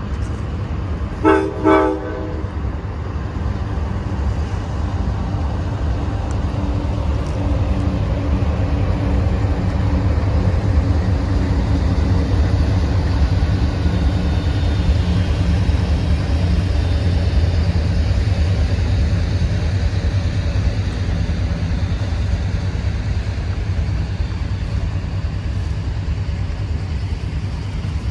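A locomotive horn sounds two short blasts about a second in. A train then rumbles past steadily, with the low drone of the engines, getting a little louder after the first several seconds.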